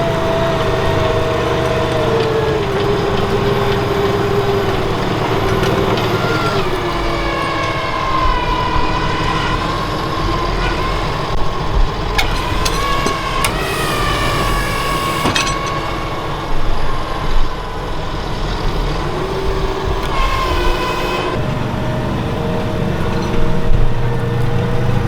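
Valtra T191 tractor's diesel engine running steadily under load while pulling a plough, with its pitch slowly rising and falling and a few sharp knocks around the middle.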